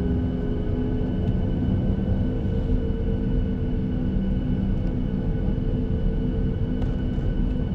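Boeing 737-800's CFM56 jet engines running at taxi power, heard from inside the passenger cabin: a steady rumble with several steady whining tones over it.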